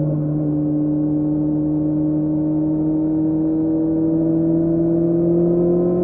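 2006 Kawasaki Z750's inline-four engine through a Scorpion carbon aftermarket exhaust with the dB killer removed, running steadily on the move. Its pitch dips slightly at first, then climbs slowly as the revs rise.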